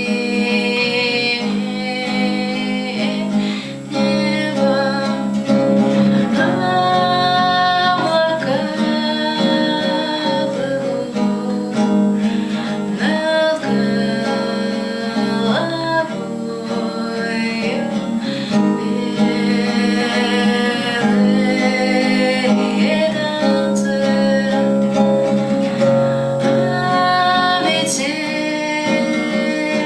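Acoustic guitar playing a song's accompaniment, strummed and picked, with a woman's voice singing held notes at times.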